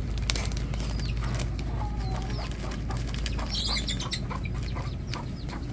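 Small birds chirping in short, repeated notes that fall in pitch, over a low rumble of wind on the microphone.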